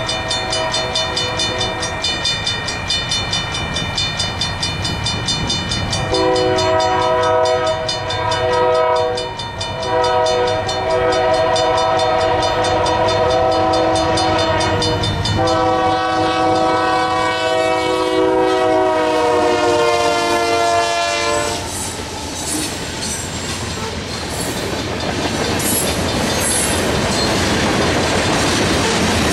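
A grade-crossing mechanical bell (an original Modern Industries bell) rings with quick, even strokes. About six seconds in, the lead GE AC4400CW locomotive sounds its horn in three long blasts for about fifteen seconds, the pitch dropping as it passes. The rumble and wheel clatter of the freight cars going over the crossing follow.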